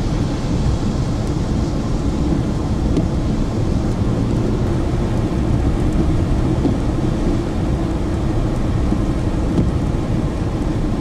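Steady rumble of road and engine noise heard inside a moving car's cabin.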